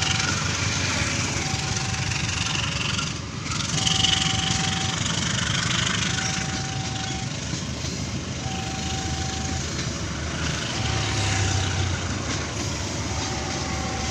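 Passenger coaches of a CC201-hauled commuter train rolling past on the rails in a steady run of wheel and rail noise. Through it, the level-crossing warning signal sounds a one-second tone about every two seconds, marking the crossing as closed.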